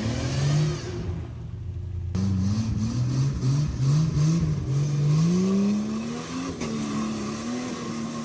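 Jeep engine revving: one rising rev at the start, then a run of short revs rising and dropping, a longer climb, and a steady held pitch for the last couple of seconds.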